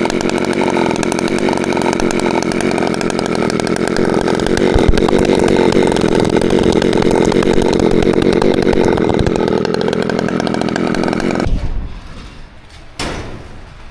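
Husqvarna 365 two-stroke chainsaw with a freshly rebuilt, ported top end, running steadily and a little louder from about five seconds in. It cuts off suddenly near the end, and a couple of knocks follow.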